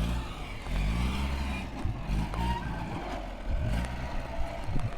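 A motor vehicle engine running, its pitch rising and falling as it speeds up and slows, over a low rumble.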